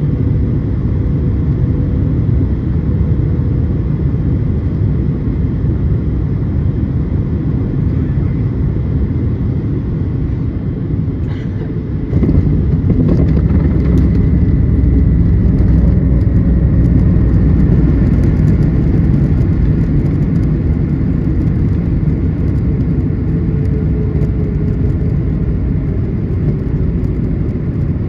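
Airliner cabin noise during the landing rollout: a steady deep rumble of the engines and wheels on the runway, stepping up in level about twelve seconds in, with a faint tone slowly falling in pitch over the second half.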